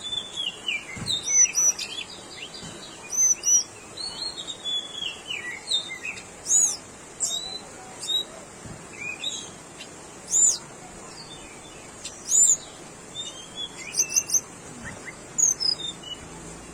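Tickell's blue flycatcher singing: short phrases of high, thin whistled notes, some arching up and down and others sliding downward, with brief pauses between phrases.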